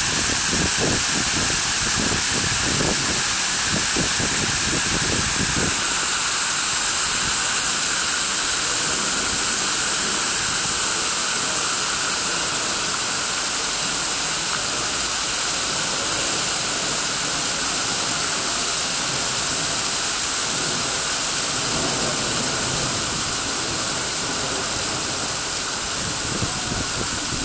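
Water feature's falling water splashing in a steady rush, with low rumbles over the first six seconds or so.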